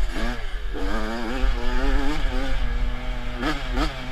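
Motocross bike engine running, its pitch rising and falling with the throttle. The pitch drops sharply and climbs back near the start and twice in quick succession near the end.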